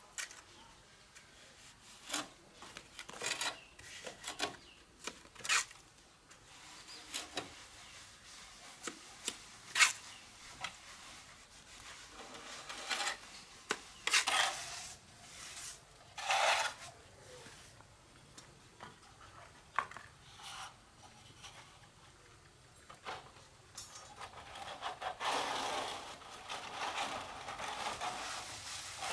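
Trowel scraping and tapping on cement plaster and brick: irregular short scrapes with sharp taps, then a longer, steadier scrape near the end.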